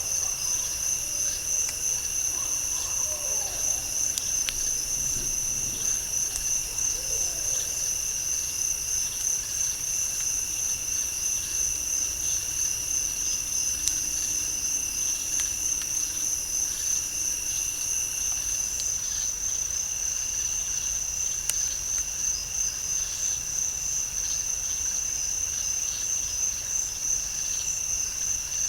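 Night chorus of crickets or katydids in a swamp: a steady, fast-pulsing high trill with a lower, fainter drone beneath it. A couple of faint sharp ticks stand out partway through.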